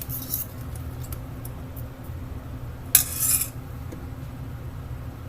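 A metal utensil clinking and scraping against cookware: a few light clicks near the start, then a short, louder scrape about three seconds in, over a steady low hum.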